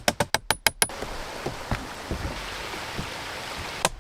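A quick run of sharp knocks on timber, about eight a second, lasting about a second, then a steady even hiss. Another short burst of knocks comes near the end.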